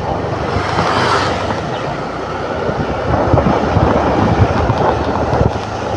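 Motor scooter engine running steadily while riding, with wind buffeting the microphone and a brief rush of noise about a second in.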